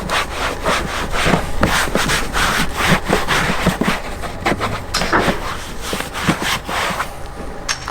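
Hand scrubbing and wiping of engine-bay parts during cleaning: quick, rhythmic rubbing strokes, about two to three a second.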